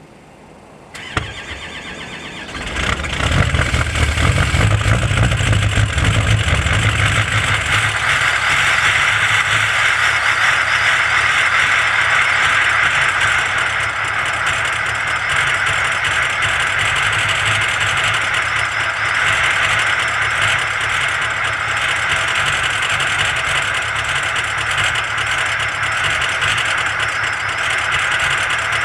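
Diesel engine cold-started in deep frost: a click and a short spell of cranking, then the engine catches about three seconds in and runs on steadily.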